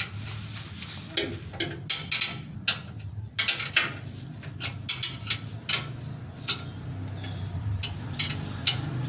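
Irregular metallic clicks and knocks of a wrench working on bolts as they are tightened, over a steady low hum.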